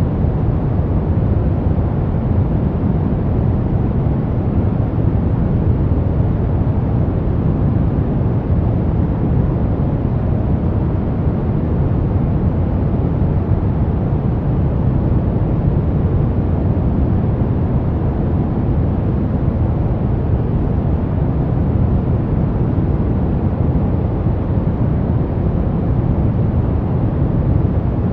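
Brown noise: a steady, deep rumbling hiss with most of its energy low down and little treble, unchanging throughout.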